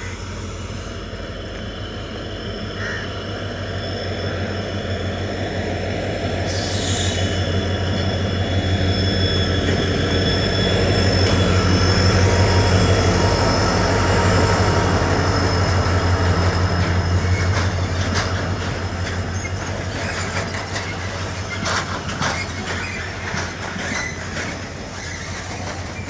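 Train running on rails, with a low rumble, fast rhythmic wheel beats and thin high wheel squeal. It grows louder toward the middle and then fades.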